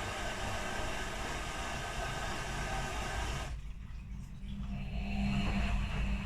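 Front-loading washing machines running a quick wash with blankets inside: a steady whirring motor and drum noise that cuts off suddenly about three and a half seconds in, followed by a lower motor hum building up again.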